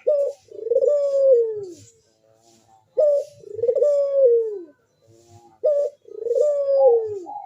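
Puter (ringneck dove) cooing: three phrases, each a short note followed by a long coo that falls in pitch. This is the full song of a dove in breeding condition.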